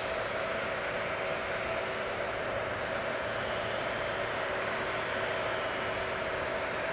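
Boeing 777-300ER's GE90 jet engines running at idle, a steady rush with a steady hum in it. A faint high chirp repeats about three times a second.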